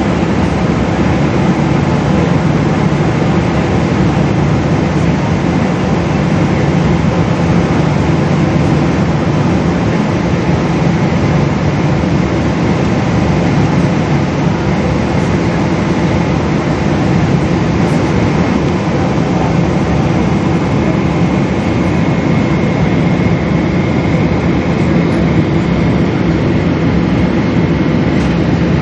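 Steady jet engine and airflow noise heard inside the passenger cabin of a Boeing 777, a constant low rumble with a hiss over it. A faint high whine joins it about two-thirds of the way through.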